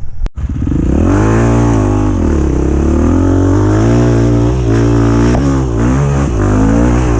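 Off-road dirt bike engine revving hard under load, its pitch rising and dipping again and again.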